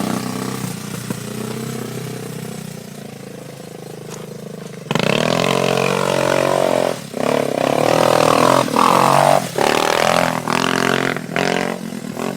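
Honda 250 cc enduro motorcycle engine running steadily and fading over the first five seconds. It then revs hard from about five seconds in, its pitch rising and falling, with the throttle briefly closing about five times.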